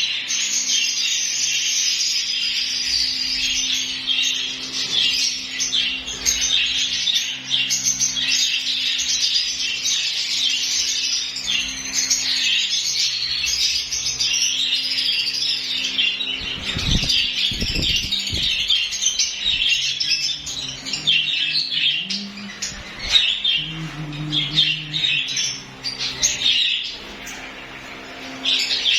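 A flock of lovebirds chattering, with many shrill chirps and squawks overlapping without pause. A few low thumps come about two-thirds of the way through.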